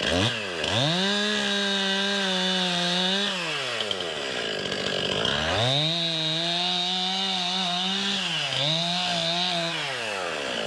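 Two-stroke chainsaw revved up to full throttle and cutting, twice: it holds high speed for about three seconds and drops back, then revs up again for about four seconds, dipping briefly partway, and falls away near the end. The saw is trimming off the "whiskers", the torn holding-wood fibres left on the butt of a freshly felled white oak.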